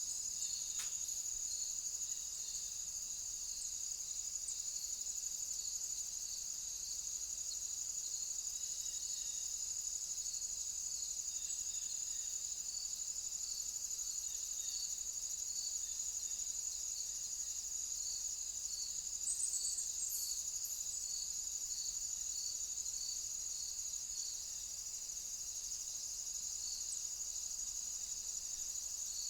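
Crickets chirping: a continuous high-pitched trill, with a lower, slower chirp repeating about once a second beneath it.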